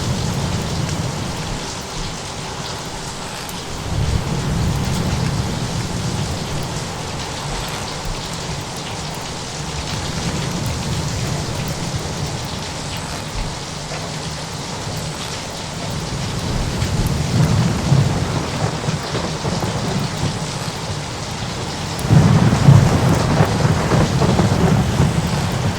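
Thunderstorm ambience: a steady hiss of rain with deep rolls of thunder, swelling about four seconds in and again in the middle, and the loudest thunderclap breaking suddenly near the end and rumbling on.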